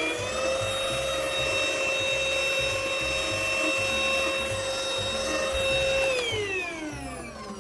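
Cordless stick vacuum's motor running with a steady high whine, then winding down and falling in pitch about six seconds in as it is switched off.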